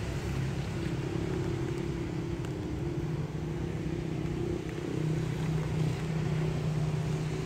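A steady low mechanical hum, like a motor running, its tone shifting lower about five seconds in.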